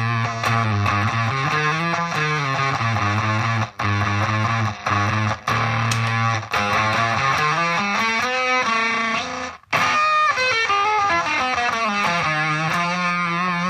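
Electric guitar (Gibson SG neck pickup) played through a Zvex Fuzz Factory fuzz pedal into a small Roland Cube amp. It plays distorted, sustained single notes with pitch bends, and the sound cuts off abruptly for a moment several times, most deeply near the two-thirds mark.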